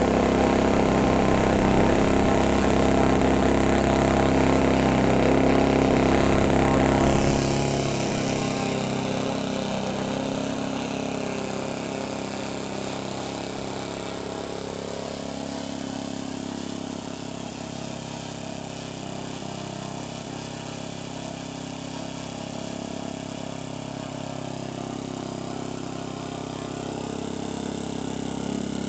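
OS 91 four-stroke model aircraft engine running steadily at high throttle. About seven seconds in it is throttled back to a lower, quieter speed, and it picks up slightly near the end.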